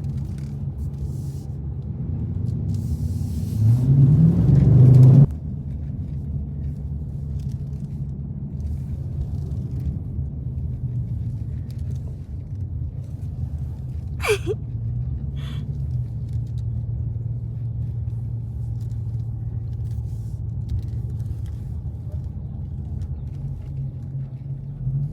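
Dodge Challenger Scat Pack's V8 running at low revs on a cruise, with one hard rev-up about three seconds in that rises in pitch for about two seconds and cuts off suddenly. A short falling squeak comes about fourteen seconds in.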